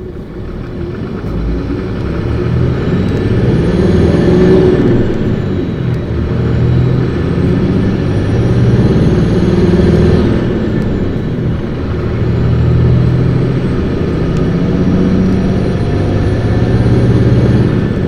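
2008 Isuzu Erga city bus (PKG-LV234Q2) accelerating hard, its diesel engine revved high: a rising whine climbs three times, each run dropping away at a gear change, heard from inside the bus.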